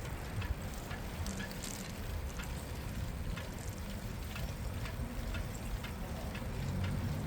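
Street sound heard from a moving bicycle: a steady low rumble with scattered light clicks and ticks.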